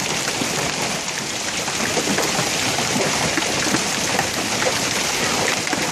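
Hailstones pelting down in a heavy hailstorm: a dense, steady clatter of countless small impacts over a rushing hiss.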